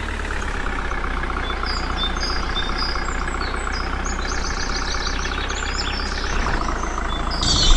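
Tractor engine running steadily, with faint short high chirps in the middle.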